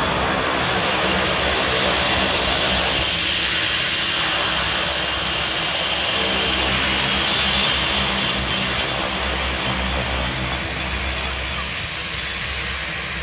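OV-10 Bronco's twin turboprop engines running at taxi power: a steady high-pitched whine over a low, even drone.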